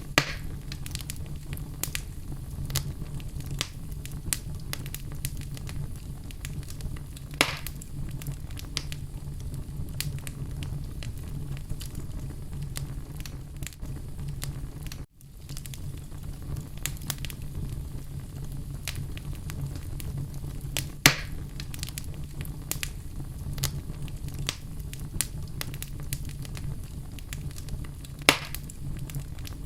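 Wood fire burning in a fireplace: a steady low rumble with continual small crackles and a few sharp pops. The sound cuts out for an instant about halfway through.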